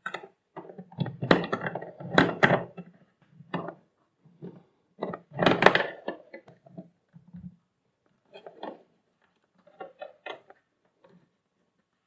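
Plastic vacuum cleaner housing being handled and taken apart with tools: irregular clicks, knocks and rattles, busiest in the first half and sparser toward the end.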